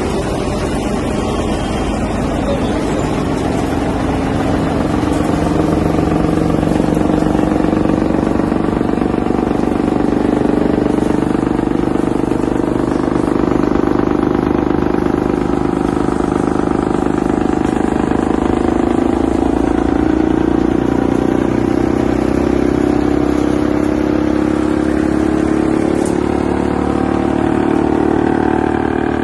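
Wood chipper running steadily, its engine holding an even pitch.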